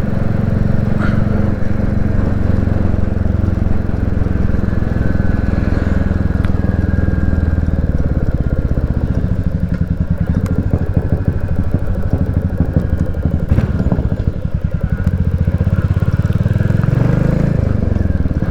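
Royal Enfield Classic 350's single-cylinder engine running steadily under way on the road, its pitch changing near the end.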